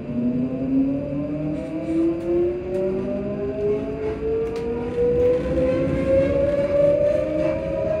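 Electric train's VVVF inverter and traction motors humming, the whine climbing steadily in pitch with several overtones as the train accelerates, over the low rumble of the running gear.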